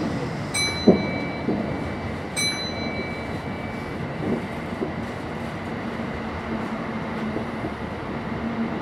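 Kintetsu electric train running through a subway tunnel: a steady rumble of wheels on rail with a few knocks over rail joints. Two short high-pitched tones sound about two seconds apart near the start, and a low steady hum comes in about halfway.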